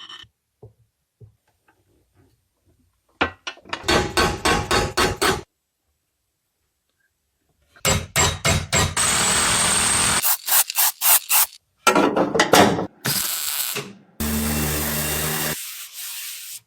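Workshop tool sounds in short clips with abrupt cuts: a quick run of scraping or striking strokes, about five a second, then a power tool running with a high whine, and near the end a motor's steady hum.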